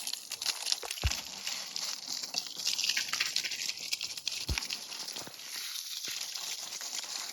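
Water spraying in a steady hiss onto a muddy mini dirt bike as it is washed down, with a couple of low thumps.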